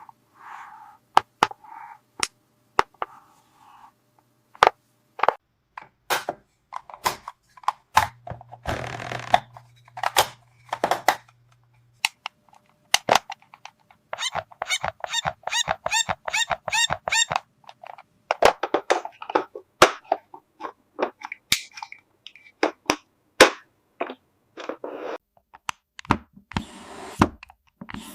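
Plastic parts of a toy water play table being handled and fitted together: sharp clicks, taps and knocks throughout. About eight seconds in, a low hum with a rushing noise runs for some four seconds, and a little later comes a quick run of evenly spaced clicks.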